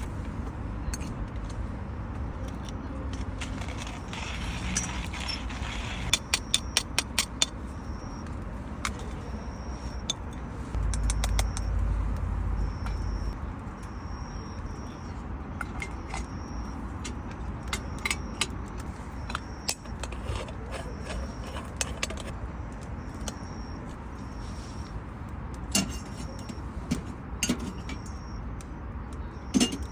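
Metal clinking and scraping as a moka pot is handled on a wood-burning stove, with scattered sharp clicks, including a quick run of them about six seconds in. From about eight seconds on, a short high note repeats roughly once a second.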